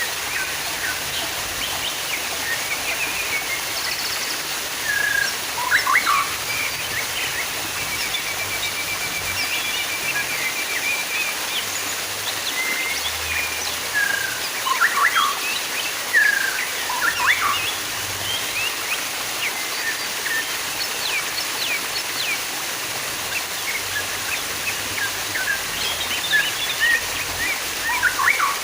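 Steady running water with small birds chirping and calling over it at irregular intervals in short, quick notes, including a brief rapid trill about eight seconds in.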